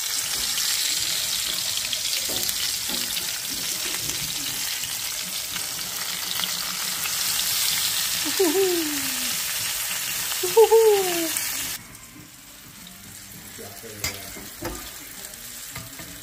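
Flour-dredged pork chops sizzling in hot oil in a skillet. The sizzle drops suddenly to a quieter level about twelve seconds in. Two short falling tones come near the middle, and a couple of light clicks come near the end.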